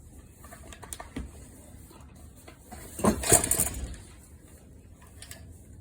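Light metal clicks and clinks as the air cleaner cover is fitted back onto a small engine, with one louder scraping clatter about three seconds in that lasts under a second.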